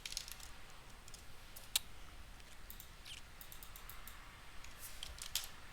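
Scattered clicks of a computer mouse and keyboard, a few at a time with gaps between, one louder click just under two seconds in.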